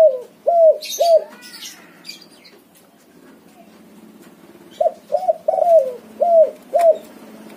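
Spotted dove (tekukur) cooing: the last hoots of one phrase end about a second in, then after a pause comes a full phrase of five arched coos. Faint high chirps from small birds are heard around it.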